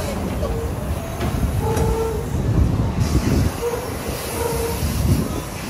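Passenger train cars rolling over a curved trestle viaduct: a steady low rumble and clatter from the wheels on the rails, with several short, high squeals from the wheel flanges on the curve.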